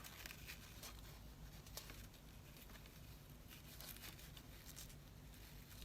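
Faint rustling and a few light taps of paper and card being handled, over a low steady room hum.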